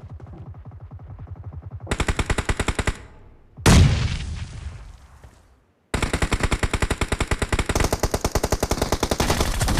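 Video-game automatic gunfire in rapid, evenly spaced shots. A single loud blast a little before four seconds in dies away, and after a brief gap the rapid fire starts again and keeps going.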